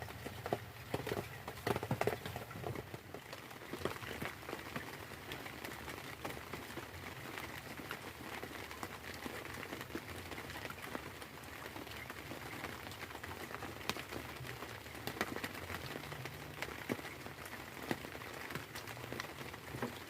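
Rain falling steadily, a constant hiss with many small drop ticks.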